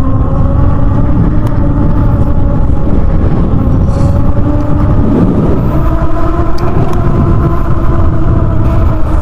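Riding noise from the HappyRun G300 Pro electric dirt bike at road speed: wind rushing over the microphone, with a steady droning tone under it that drifts slightly in pitch.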